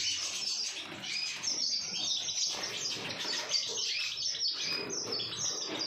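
Canaries chirping and twittering: a dense, unbroken run of short high notes.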